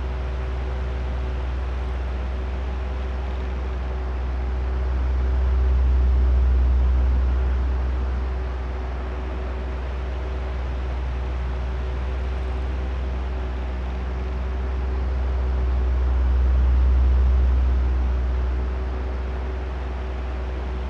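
Oscillating electric fan running: a steady motor hum over a rush of moving air. The low rush swells twice, about ten seconds apart, as the fan head turns back and forth.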